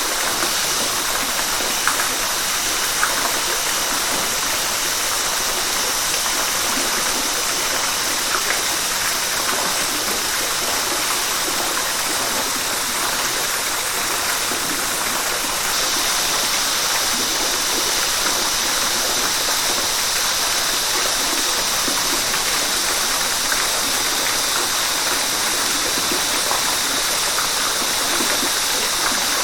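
River water rushing and splashing over rocks in a continuous, steady flow, turning a little brighter and hissier about halfway through.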